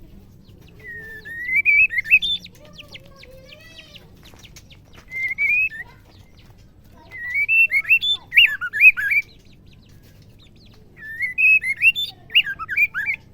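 Female white-rumped shama calling in four short bursts of quick warbling whistles, each one to two seconds long, with pauses between.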